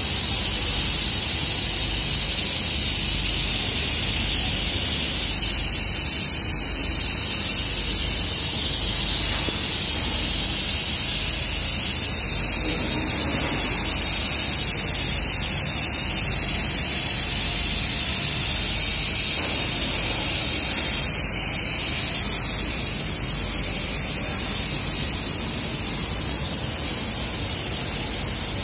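Continuous fiber laser welding machine with a robot arm at work: a steady, loud hiss that eases off slightly near the end.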